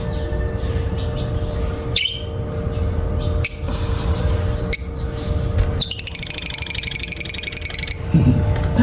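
African lovebird giving short, shrill calls every second or so, then a rapid chattering run of chirps, about ten a second, for some two seconds near the end.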